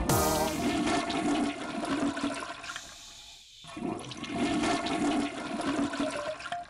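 Toilet flushing: a rush of water that dies away briefly about halfway through, then surges again.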